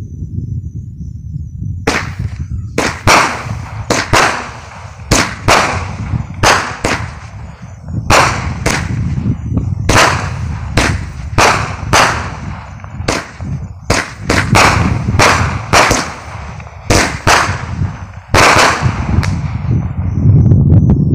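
Fireworks going off in quick succession: about twenty sharp bangs, roughly one a second, each trailing off briefly, over a continuous low rumble.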